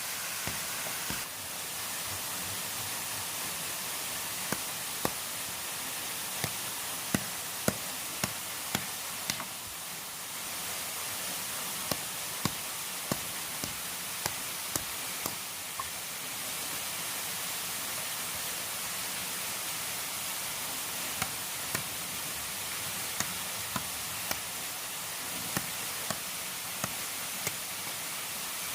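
A steady hiss of water noise with irregular sharp knocks and clicks over it, a few of them loud.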